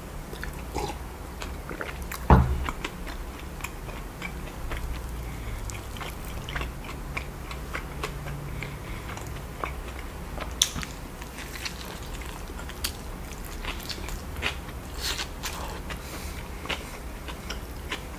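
Close-miked chewing and biting of a soft burger, with many small wet clicks and smacks of the mouth. A single loud knock comes about two seconds in.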